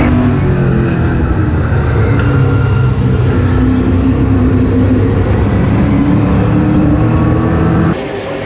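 Super stock race car engine running hard at racing speed, its note wavering slightly up and down. The level drops suddenly near the end.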